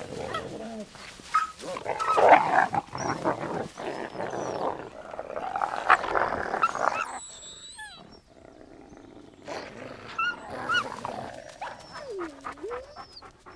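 Iberian wolves growling and snarling at one another in irregular bursts, with a drawn-out whine about twelve seconds in. Small birds chirp in the background.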